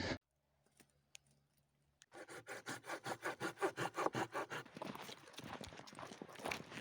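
Near silence for about two seconds, then footsteps crunching through a thin layer of fresh snow, a quick even run of about four crunches a second that turns denser and less regular near the end.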